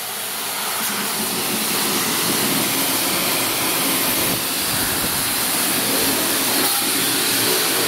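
A car wash pressure-washer wand spraying a steady high-pressure jet of water onto a greasy leaf blower's deck, blasting off grease loosened by citrus degreaser.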